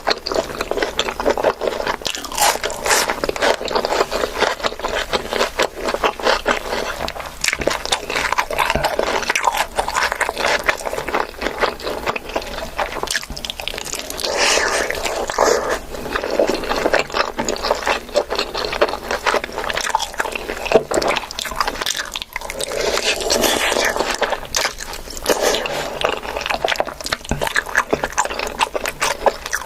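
Close-up eating sounds: a person chewing and biting food, with crunching and scraping, in a dense run of small clicks.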